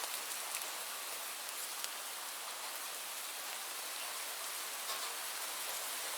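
Steady rainfall: an even hiss of rain with a few separate drops ticking now and then.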